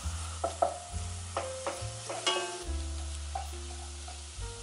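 Ginger strips sizzling in hot sesame oil as they are tipped into the pot and stirred with a wooden spoon. Background music with held bass notes and plucked notes plays over the frying.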